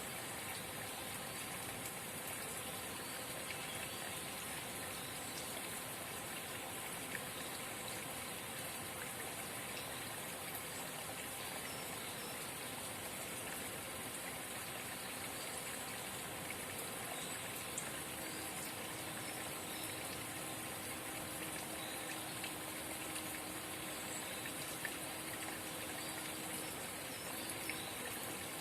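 A forest spring babbling: water trickling and splashing steadily, with small drip-like clicks.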